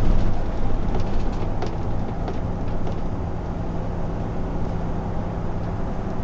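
Steady road and engine noise inside a moving car's cabin, with a few light clicks in the first few seconds.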